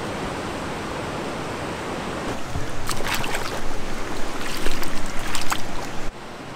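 River water rushing and splashing around a canoe. It grows louder about two seconds in with a run of sharp splashes, and cuts off suddenly near the end.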